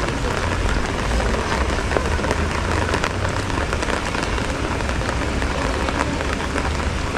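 Heavy rain falling steadily, a dense even hiss dotted with countless small drop ticks, with a low rumble underneath.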